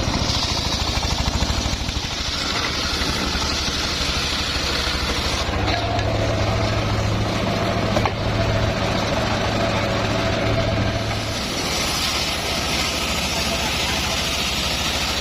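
The engine of a homemade circular-saw sawmill running steadily. A deeper hum strengthens for about six seconds in the middle, then drops back.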